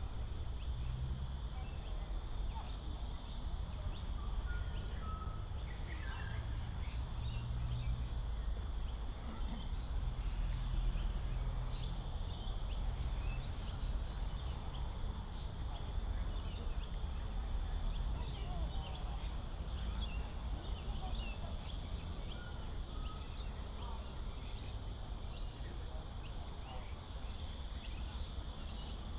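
Outdoor ambience: a steady high insect drone that cuts off about twelve seconds in and comes back near the end, scattered short bird chirps, and a steady low rumble underneath.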